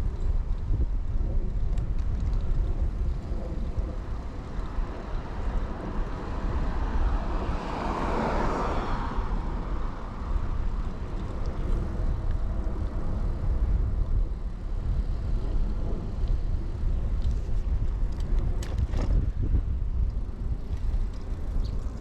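Low wind rumble on a chest-mounted action camera during a bicycle ride, with a car passing by that swells and fades about eight seconds in. A few faint clicks come near the end.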